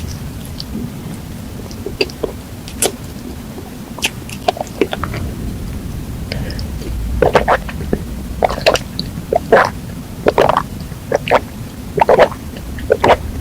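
Close-miked chewing and wet mouth smacking while eating chocolate desserts, over a low steady rumble. Scattered faint clicks at first, then from about seven seconds in a run of loud smacks, two or three a second.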